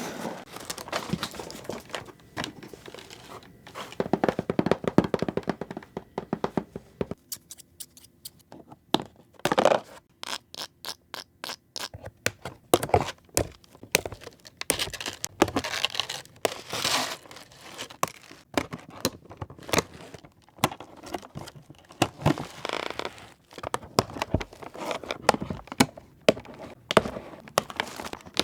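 Doll packaging being handled and opened by hand: plastic and cardboard crinkling, tearing and scraping, with many small clicks and knocks throughout.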